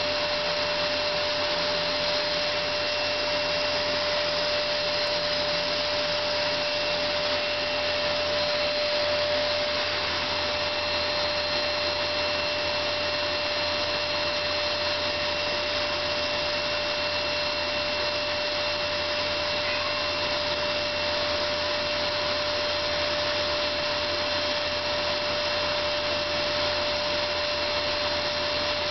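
Vacuum cleaner running steadily: an even rush of air with a constant humming tone.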